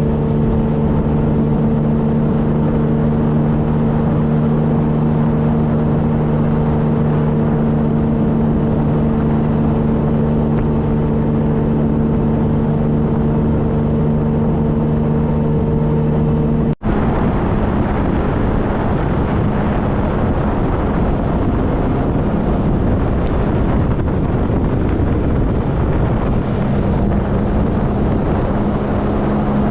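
2013 Triumph Trophy SE's inline-three engine running steadily under way, mixed with wind and road noise. The sound cuts out for an instant about 17 seconds in; after that, rushing wind noise dominates and the engine tone comes back faintly near the end.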